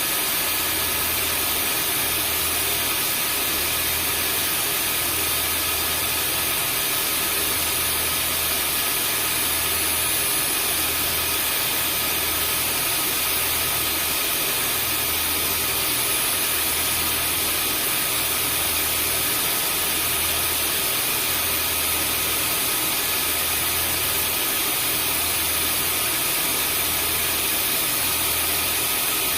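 Vacuum cleaner running steadily: a constant rushing hiss with a high motor whine, over a low hum that swells and fades about once a second.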